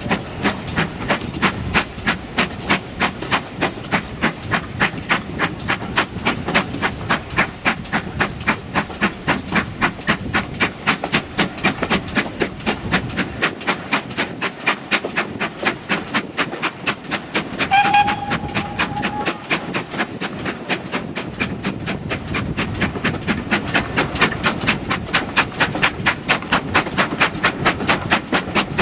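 Steam train running at a steady pace, with an even rhythmic beat about three times a second. About two-thirds of the way in, a short whistle-like tone sounds briefly.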